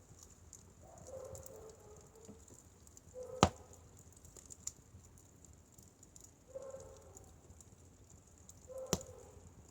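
Firewood burning, crackling with small scattered ticks over a faint steady hiss, and two sharp loud pops, one about three seconds in and one near the end.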